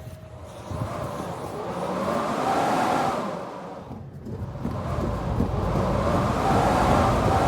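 Wind howling in gusts, swelling and fading about every three to four seconds, with a whistling tone that rises and falls in each gust.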